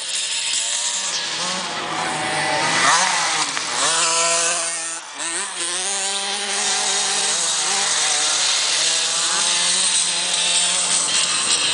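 Motocross bike engines revving hard and easing off as the bikes race past, their buzzing pitch rising and falling repeatedly.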